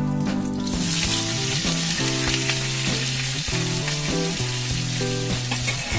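Wet potato pieces dropped into hot oil in an iron kadai, breaking into a steady sizzle about a second in, over background music.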